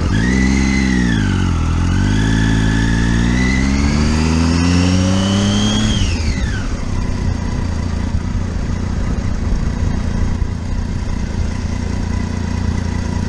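Motorcycle engine accelerating: its pitch dips briefly, then climbs steadily for about four seconds before the throttle is closed about six seconds in, leaving a steady low engine rumble.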